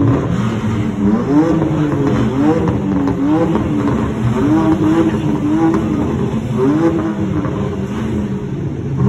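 A car engine revved hard again and again, its pitch climbing and dropping about once a second.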